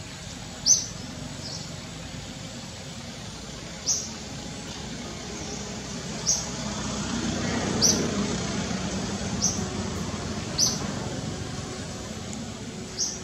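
Outdoor ambience: a bird gives a short high chirp every one to three seconds, and a vehicle passes, its noise swelling and fading around the middle.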